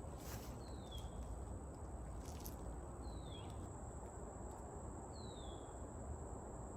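A bird gives a short, downward-slurred whistle three times, a little over two seconds apart, over a steady high-pitched insect drone in summer woods.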